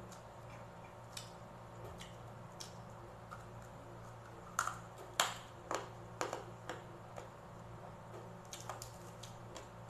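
Close-up eating sounds: a bite, then crunching and smacking while chewing crispy fried pork belly with its crackling skin, heard as scattered sharp crackles with a dense run of them about halfway through. A low steady hum lies underneath.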